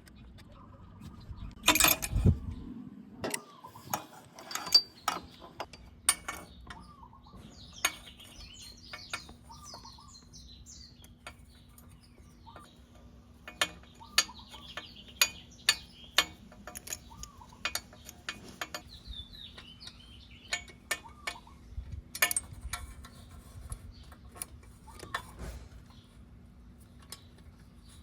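Hand tools clicking and clinking against metal at irregular intervals while the scooter's exhaust is worked on, the loudest a sharp clatter about two seconds in.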